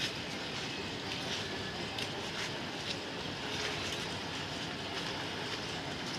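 Steady heavy rain: an even hiss of falling rain with faint scattered ticks of drops.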